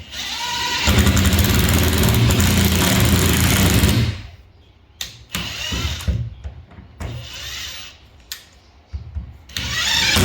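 Power drill running into plasterboard to fix into the framing behind it. One long run of about three and a half seconds rises in pitch as it spins up, then a few short bursts follow, then another long run near the end.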